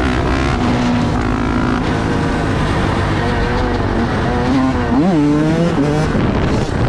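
Vehicle engines running, with one sharp rev, a quick rise and fall in pitch, about five seconds in.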